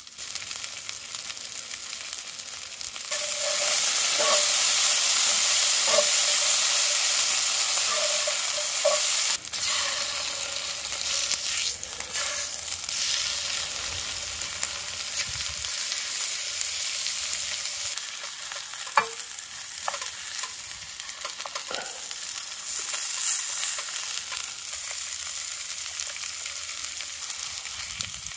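Diced potatoes and a chicken breast sizzling in oil in a Lodge cast-iron skillet. The sizzle gets much louder about three seconds in, as the raw breast goes into the hot oil, and eases back a few seconds later. Several sharp taps of a utensil against the pan come later on.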